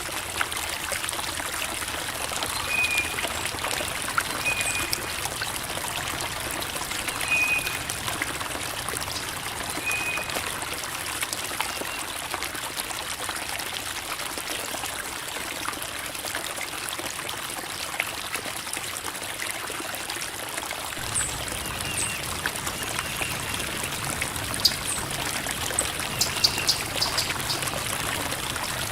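Creek water running and trickling over rocks in a steady babble. A few short, high chirps come every couple of seconds in the first ten seconds and again near the end.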